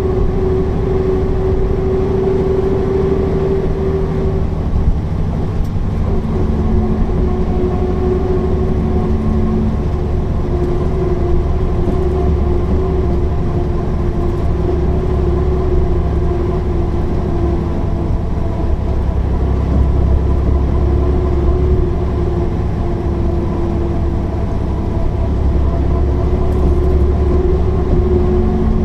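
Mercedes-Benz O408 city bus's six-cylinder diesel engine running with a steady drone and low rumble, its pitch shifting only slightly.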